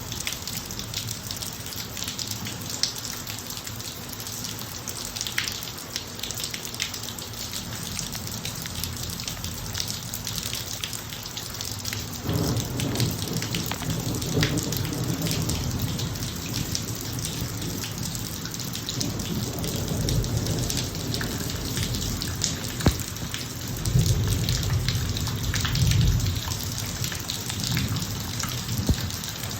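Steady rain falling on a driveway, with many close drops pattering. Thunder rumbles in low about twelve seconds in and swells again near the end.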